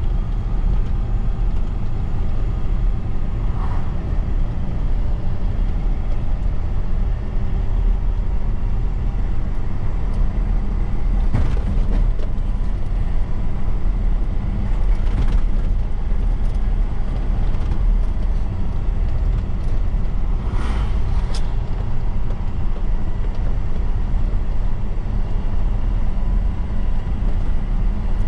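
Heavy truck driving on the road: a steady low engine and road rumble. A few brief sharp noises stand out about eleven and fifteen seconds in and twice more some twenty seconds in.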